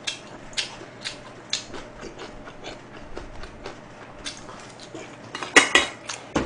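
Close-miked chewing of grilled pork belly: wet smacking clicks about twice a second that thin out midway. About five and a half seconds in comes a louder clatter of metal cookware being handled.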